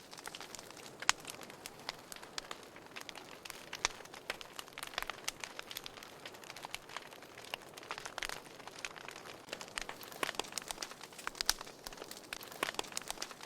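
Wood fire crackling in a fireplace: irregular sharp pops and snaps over a soft hiss, with a few louder snaps scattered through.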